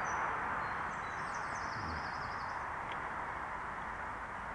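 Steady rushing noise of riding an electric bike, wind and tyres, with a short run of high chirps between about one and two and a half seconds in.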